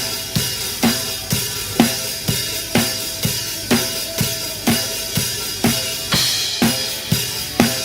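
Drum kit playing a steady groove, with a strong bass-drum and snare hit about twice a second under cymbal wash, over the song's other instruments.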